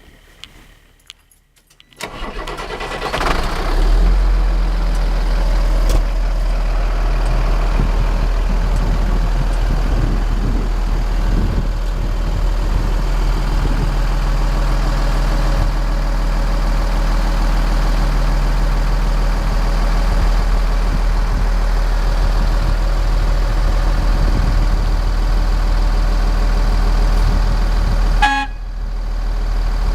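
Cummins 8.3 diesel engine of a Sterling LT7500 dump truck cranking and catching about two seconds in, then running at a steady idle with a deep rumble, briefly interrupted near the end.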